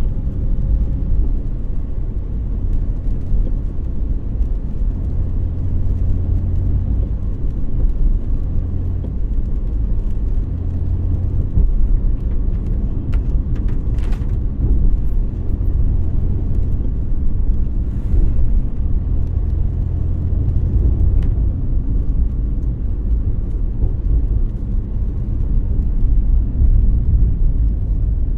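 A car driving, its engine and road noise a steady low rumble, with a few brief clicks about halfway through.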